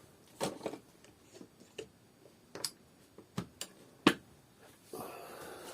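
Scattered clicks and knocks of hard plastic parts and tools being handled while a vacuum cleaner's housing is taken apart. The loudest is a sharp knock about four seconds in, and a rough scraping or rustling starts near the end.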